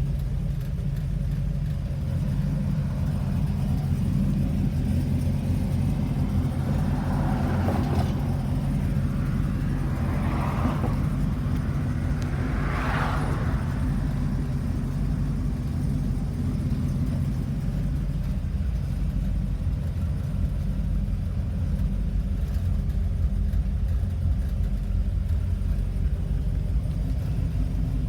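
Ford 460 big-block V8 with a custom exhaust idling steadily with a deep, even rumble. Three brief swells of higher noise rise and fade in the middle.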